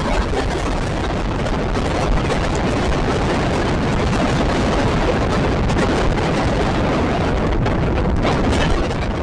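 Steady, loud rumble of an express passenger train running along the track: wheels on the rails and air rushing past the coach.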